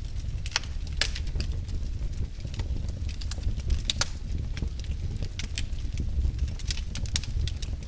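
Wood fire crackling in a fireplace: irregular sharp pops and snaps, a few louder than the rest, over a steady low rumble of burning.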